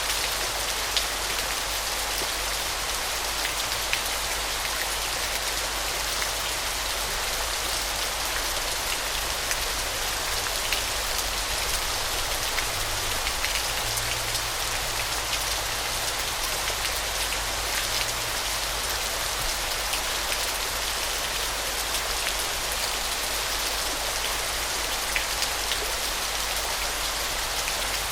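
Steady hiss of falling water, with scattered small drips and splashes.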